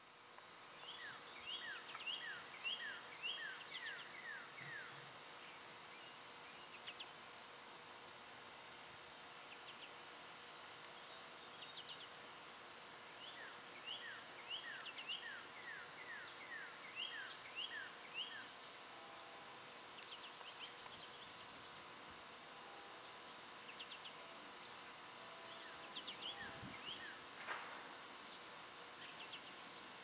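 Faint outdoor birdsong: a bird repeating quick runs of short descending chirps in several bursts, over a soft steady background with a low hum.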